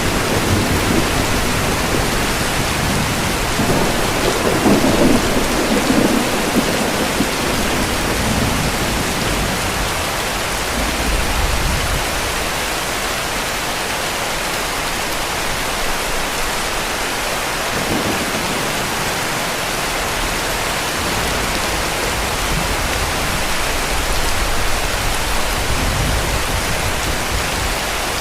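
Heavy rain falling steadily, with low rolls of distant thunder; the strongest rumble comes a few seconds in.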